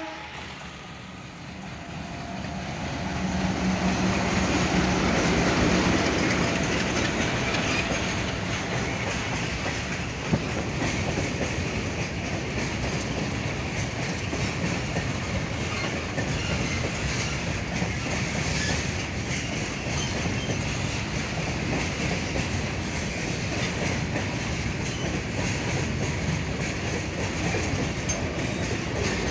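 Diesel locomotive hauling a goods train passes, its engine hum building to a peak a few seconds in, then the freight wagons roll by with steady rail clickety-clack and one sharp knock about ten seconds in.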